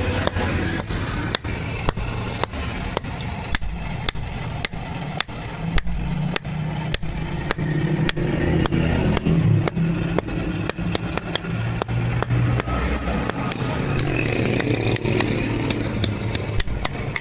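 Repeated hammer blows on iron being forged, about two to three sharp strikes a second, over a steady low rumble.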